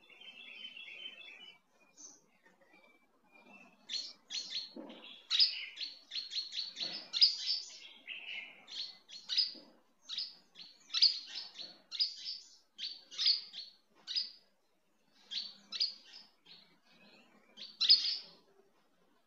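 Small birds chirping: many short, high calls in quick runs, with brief pauses between them.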